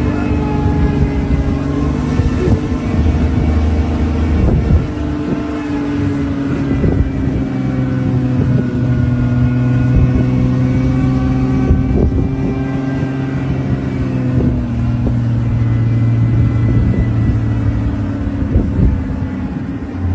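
Safari jeep's engine running steadily as it drives, its pitch drifting gently up and down, with occasional sharp knocks and rattles.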